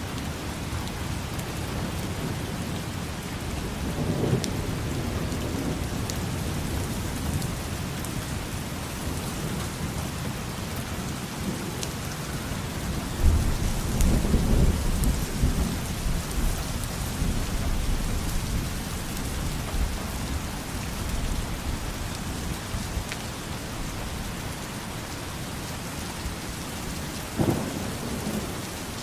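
Steady rain with rolls of distant thunder: a low rumble about four seconds in, a louder, longer one midway, and a short one near the end.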